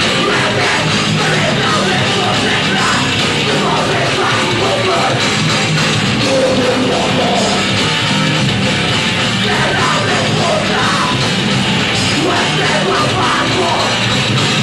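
A heavy metal band playing live: distorted electric guitars, bass and drums in a dense, loud wall of sound, with shouted vocals coming in at times.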